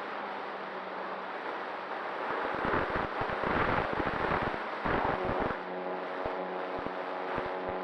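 Wind gusting and buffeting the microphone. A steady hum of several layered tones comes in about two-thirds of the way through.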